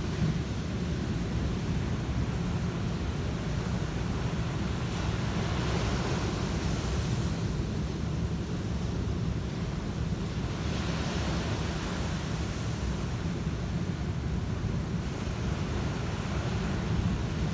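Sea surf washing onto a beach, with two swells of hissing wash about five and ten seconds in, over a steady low rumble of wind on the microphone.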